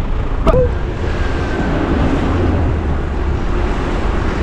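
Street traffic and wind buffeting the microphone, a steady low rumble and hiss. A single sharp click with a brief squeak comes about half a second in.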